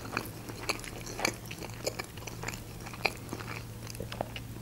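Close-miked chewing of a soft rolled wrap: irregular wet mouth clicks and smacks. A low steady hum runs underneath.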